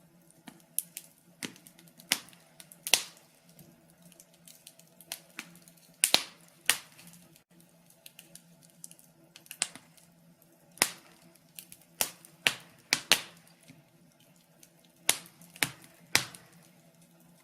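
Wood fire in a fireplace crackling, with irregular sharp pops every second or so, some much louder than others, over a faint steady low hum.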